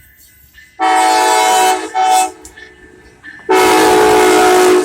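Amtrak passenger locomotive horn sounding three loud chords: a long blast, a short one, then another long blast. This is the close of the long-long-short-long grade-crossing signal.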